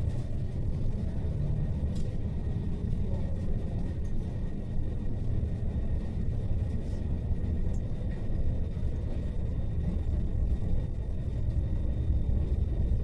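Cabin noise inside a JR East E5 series Shinkansen under way: a steady low rumble of the train running on the track.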